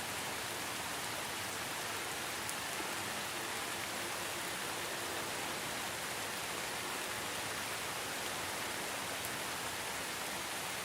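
Steady rainfall, an even hiss of rain with no distinct drops or thunder.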